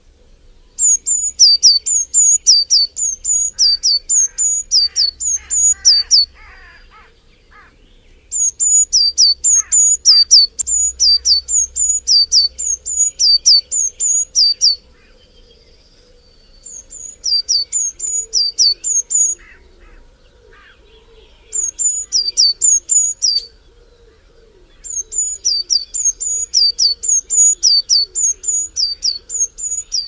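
A bird calling loudly with high, sharp notes that each drop in pitch, repeated about three times a second in bouts of several seconds broken by short pauses. Fainter, lower calls of other birds sound behind.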